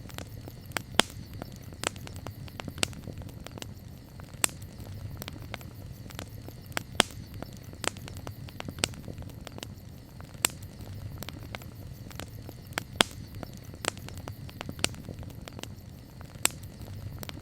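Wood campfire burning with irregular sharp crackles and pops, a few louder snaps standing out, over a steady low rumble of the flames.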